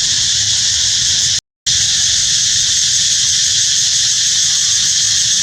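Steady, high-pitched insect drone, typical of cicadas, running without a break over a low background rumble. It cuts out to silence for a moment about one and a half seconds in.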